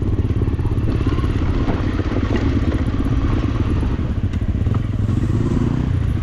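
A Honda CRF250L's single-cylinder engine running steadily as the motorcycle rides an off-road track, with a few short knocks and clatter.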